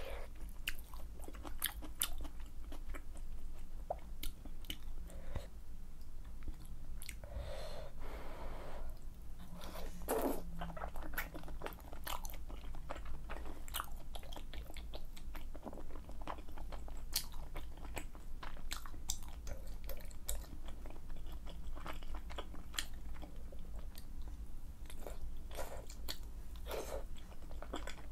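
Close-miked chewing of malatang: many quick, wet, sticky mouth clicks and smacks from chewy wide glass noodles and toppings, with a longer slurp about eight seconds in.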